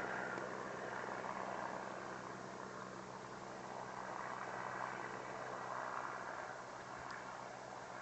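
Helicopter engine and rotor drone, faint and steady, with a low hum that swells and fades a little.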